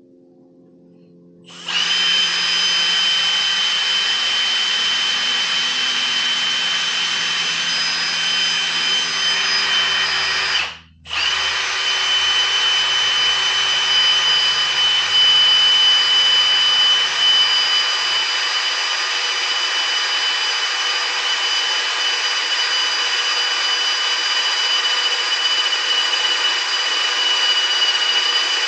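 Electric drill running with a bit a size over 1/4 inch, boring a bolt hole; it starts about a second and a half in, stops briefly near the middle, then runs steadily on.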